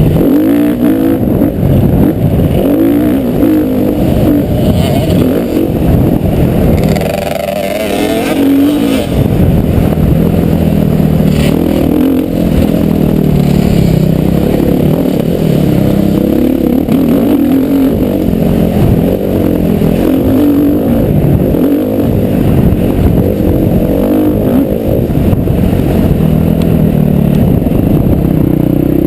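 Motocross bike engine revving up and down continuously as it is ridden round the track, loud and close, with a dip in revs around seven to eight seconds in.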